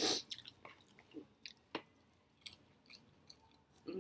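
A person chewing fried food close to the microphone: irregular short mouth clicks and crackles, a few a second, with the loudest one right at the start.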